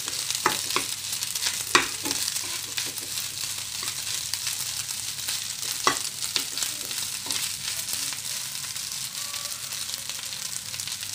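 Egg fried rice sizzling and crackling in a hot nonstick frying pan as it is fried dry, with a spatula stirring and scraping through it. A few sharp clicks of the spatula against the pan stand out, the loudest about two seconds and six seconds in.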